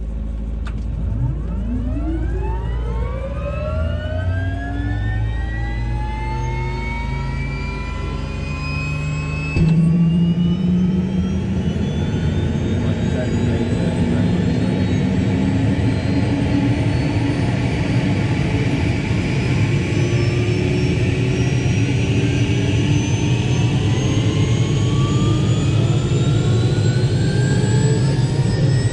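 Robinson R66 helicopter's Rolls-Royce RR300 turboshaft engine starting: a whine rising steadily in pitch as the turbine spools up, with a sudden step up in loudness and low rumble about ten seconds in, after which the whine keeps climbing.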